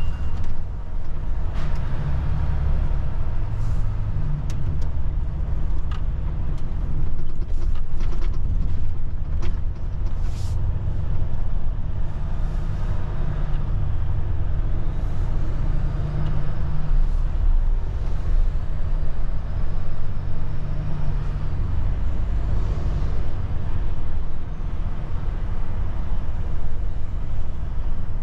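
Volvo truck's diesel engine running with a steady low rumble, with a few short clicks and hisses scattered through the first ten seconds or so.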